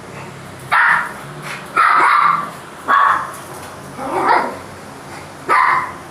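Puppy barking, five short high-pitched barks about a second apart.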